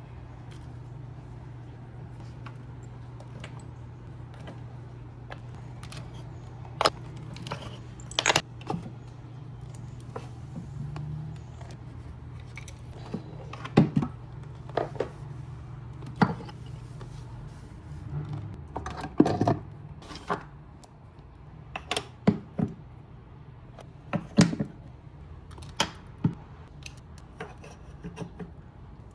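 Scattered sharp clicks and clatters, like small hard objects being handled, over a steady low hum that stops about two-thirds of the way through.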